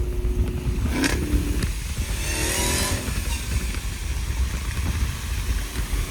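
Supercharged 6.2-litre V8 of a Dodge Hellcat Redeye Jailbreak with a new aftermarket exhaust, running under way with a steady low rumble. Its pitch rises briefly about a second in.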